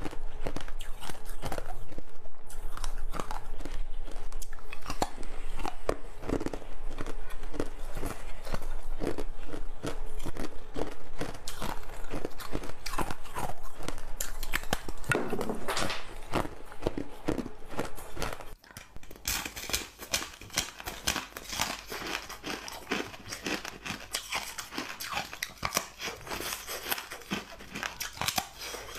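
Close-up eating: loud, crunchy bites and chewing of a hard green treat, with rapid crackles. About eighteen seconds in it suddenly drops to quieter, finer crackling mouth sounds.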